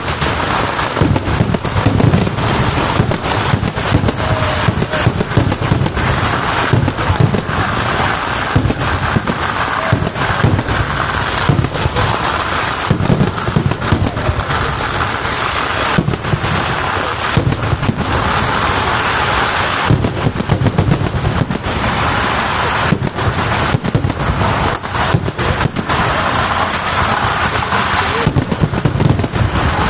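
Dense barrage of firecrackers and fireworks: rapid overlapping bangs with no break.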